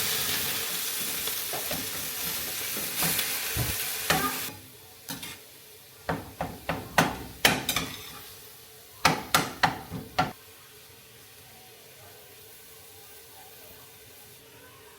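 Food sizzling as it fries in a pan, a dense steady hiss that cuts off suddenly a few seconds in. Then a quick run of sharp knocks and clinks of a utensil against the pan or dishes, followed by low quiet.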